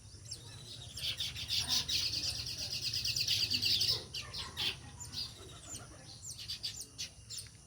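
House sparrows chirping: a dense run of rapid chirps from about one to four seconds in, then scattered single chirps.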